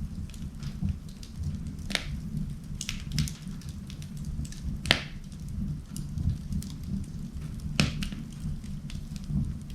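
Wood fire burning in an indoor fireplace, crackling steadily over a low rumble, with sharp louder pops about two, five and eight seconds in.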